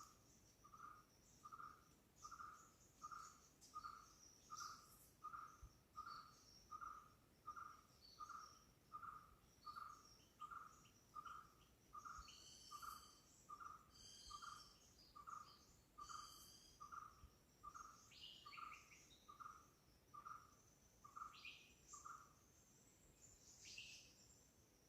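A bird calling a long, faint series of evenly spaced single notes, all at one pitch, about three every two seconds, which stop about 22 seconds in. Higher chirps and trills of other small birds and insects go on throughout.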